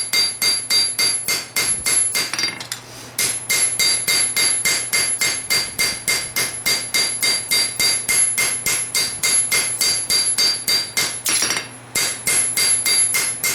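Hand hammer forging hot steel on an anvil, shaping a knife blade made from a farrier rasp: a steady run of blows, about three to four a second, each with a bright ring from the anvil. The hammering breaks off briefly twice, about two and a half seconds in and near the end.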